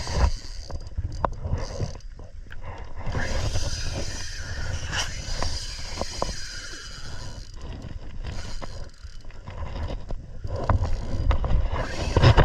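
Wind buffeting the microphone and water washing around a kayak, with scattered light knocks and clicks throughout.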